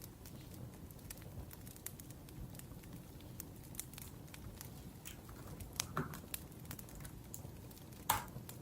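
Wood fire crackling with irregular small snaps over a low rumble, and a few louder pops about six seconds in and again near the end.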